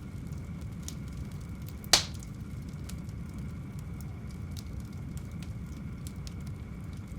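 Wood fire crackling: a steady low rumble of flames with scattered small pops and ticks, and one loud sharp pop about two seconds in.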